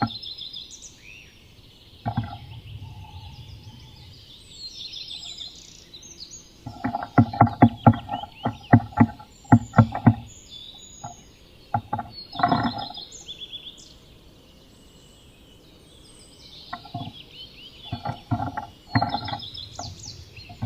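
Eurasian nuthatch knocking and tapping inside a wooden nest box as it works on the nest, in quick bursts of taps in the middle and again near the end. Other birds sing throughout.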